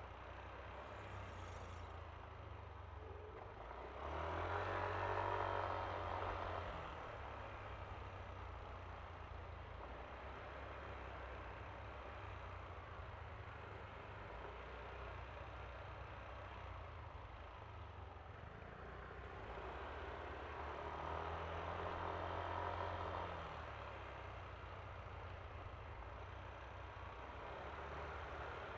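Yamaha Aerox V3 scooter's 155 cc single-cylinder engine running under way, with steady road and wind noise. The sound swells louder twice, about four seconds in and again about twenty seconds in.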